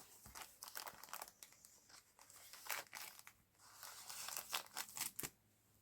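Faint paper rustling and crinkling as the pages and paper inserts of a handmade junk journal are handled, in a string of short, irregular rustles, strongest around the middle and toward the end.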